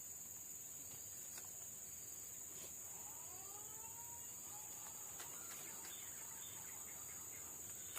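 Steady high-pitched insect chorus of crickets or cicadas, with a short bird call of a few gliding notes about three seconds in and a few faint clicks.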